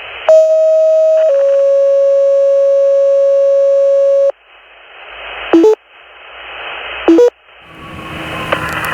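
Fire dispatch two-tone alert heard over a radio scanner: a tone held about a second, then a slightly lower tone held about three seconds. Radio hiss follows, broken twice by short two-step chirps, and the noise grows louder near the end.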